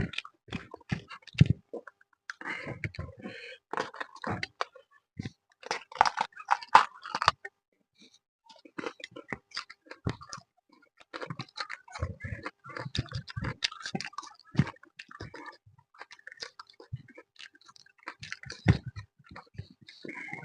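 A person chewing and eating a meal of fish and rice close to the microphone: a run of irregular, short wet smacks and clicks of the mouth.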